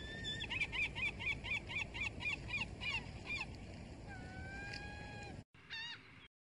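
Gull calling: a rapid run of about a dozen short calls, about four a second, then one long drawn-out call, over a steady background hiss. The sound cuts off abruptly near the end, and one short wavering call follows.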